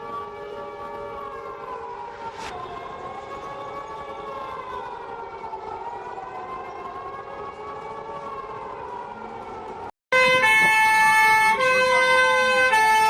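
Emergency alert alarm: a chord of several siren-like tones slowly wavering up and down in pitch. About ten seconds in it breaks off briefly, then a much louder alarm starts, with steady tones switching in steps and a tone sweeping up and down over them.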